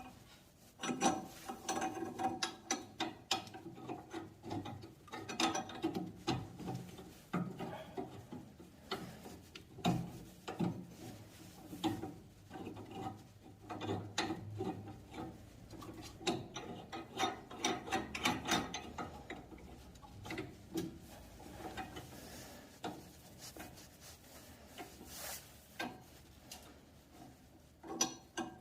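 A wrench tightening the threaded pipe joint of a 20A ball valve on a heating distributor line: irregular metal clicking and scraping.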